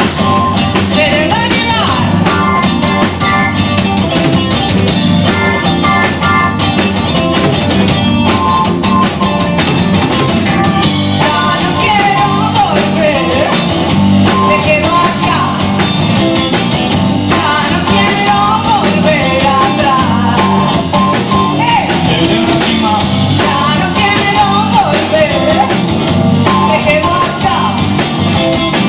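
Live rock band playing, with the drum kit to the fore and singing over it.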